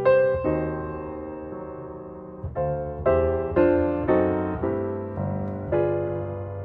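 Background piano music: slow notes and chords struck and left to fade.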